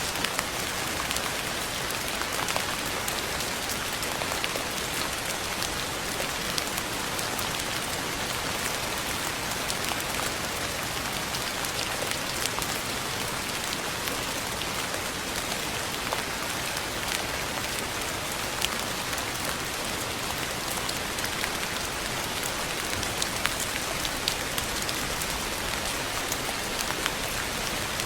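Steady rain falling on a surface: a dense, even patter with many small distinct drop ticks. It holds constant throughout, with no thunder.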